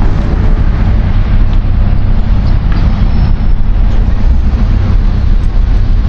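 Road traffic on a city street: cars and buses running by as a steady, loud, low rumble.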